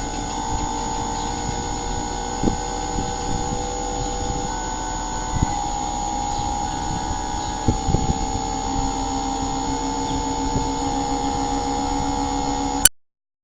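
Steady machine hum made of several constant tones, with a few faint clicks, cutting off abruptly near the end.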